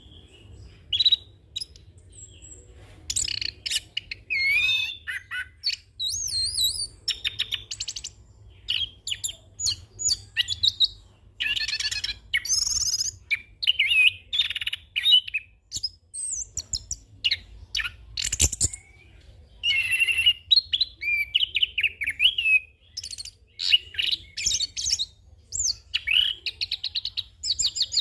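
Chestnut-capped thrush singing a long, varied rolling song of whistled glides, warbles and rapid trills packed with mimicked phrases, with only brief breaks. A single sharp knock sounds about two-thirds of the way through, over a low steady hum.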